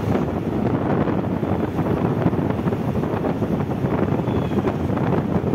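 Wind buffeting the microphone on a moving motorcycle, a steady rushing noise with the bike's running and road noise underneath.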